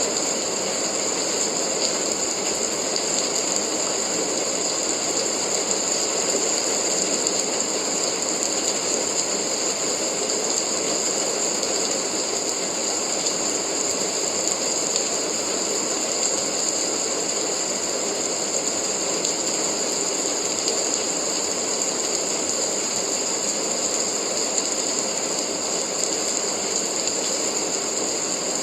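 Steady rain: a dense, even hiss of falling drops that holds at one level throughout, with no breaks or single loud events.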